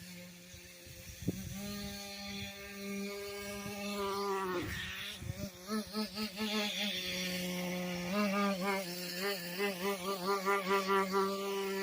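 Small nitro engine of a rebuilt Traxxas Slash RC truck running with a steady high whine. Its pitch dips and recovers about halfway through, then warbles quickly over the last few seconds as the engine surges. The engine is still being tuned after its rebuild.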